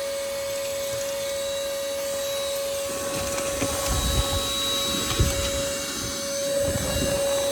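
Cordless ash vacuum on a DeWalt 20V battery running steadily with a whine. From about three seconds in come irregular low rumbles and a sharp knock near five seconds as the nozzle sucks up fireplace ashes and small chunks.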